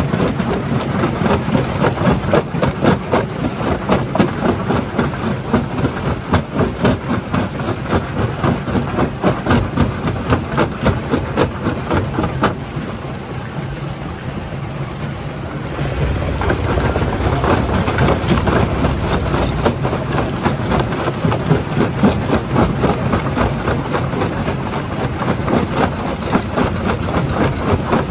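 Primary jaw crusher crushing stone: a continuous clatter of cracking and knocking rock over a heavy machine rumble. The crushing eases for a few seconds about halfway through, then picks up again with a deeper rumble.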